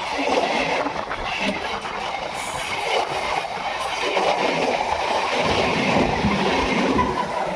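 Indian local train passing close by: a steady, loud running noise of wheels on the rails.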